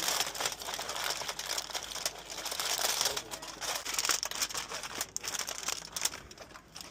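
Irregular crinkling and rustling of packaging being handled, with many small crackles.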